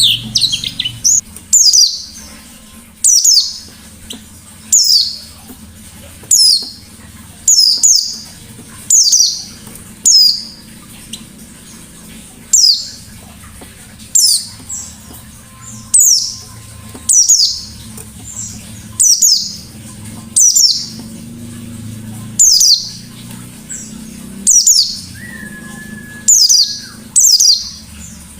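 A white-eye (pleci) calling over and over, loud short sharp notes that sweep downward, about one a second, with a quick burst of twittering at the start.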